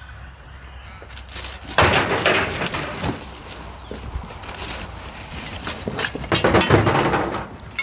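Scrap metal car parts clattering and crashing as they are tossed onto a pile, in two busy bursts of knocks and clanks: one about two seconds in, another about six seconds in.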